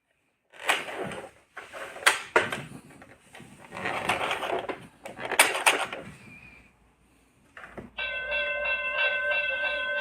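Plastic toy school bus being handled, with a run of clicks, knocks and rattles as its parts and buttons are worked. About eight seconds in, its speaker starts a loud electronic sound of several tones pulsing in a steady rhythm.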